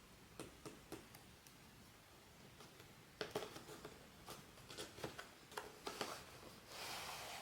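Hands handling blind-box packaging: scattered light clicks and taps, a busier run of them in the middle, then a short crinkly rustle near the end.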